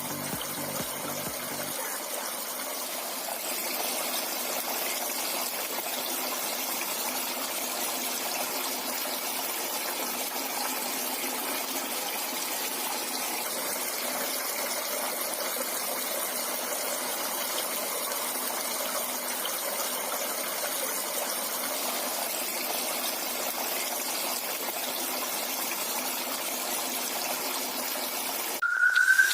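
Small cement tabletop water fountain running: a steady stream of water falling and splashing into its basin.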